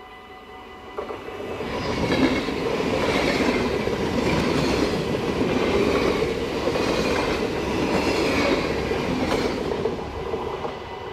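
A train passing through a railway level crossing: the rumble and wheel clatter on the rails build up about a second in, stay loud with a clatter roughly every second as the cars go by, and fade near the end. The crossing's warning bells keep ringing steadily underneath.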